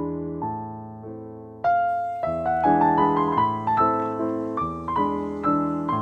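Background piano music: struck notes and chords, growing louder and fuller about a second and a half in.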